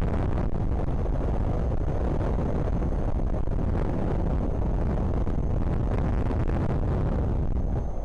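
Strong wind buffeting the microphone, a loud, steady rushing noise heaviest in the low end.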